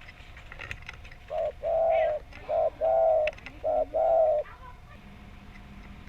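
Spotted dove (tekukur) cooing: starting about a second in, one phrase of six low coos in three pairs, each a short note followed by a longer one.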